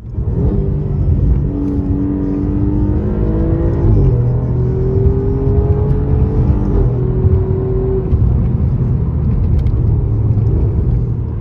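Alfa Romeo Giulia Quadrifoglio's twin-turbo V6 accelerating under load: the engine note rises, drops sharply at an upshift about four seconds in, climbs again through the next gear, and settles into a steady drone after another shift around seven seconds in.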